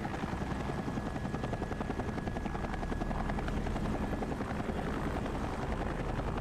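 Helicopter running steadily, its rotor blades chopping in a rapid, even beat.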